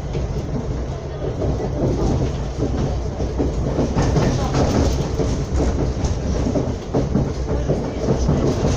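A moving Serbian Railways passenger train heard from inside the carriage: a steady running rumble with the clatter of wheels over the rails.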